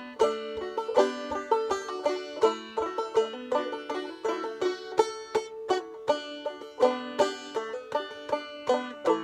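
Instrumental introduction to a traditional folk ballad played on plucked acoustic strings: a steady run of picked notes, each ringing on.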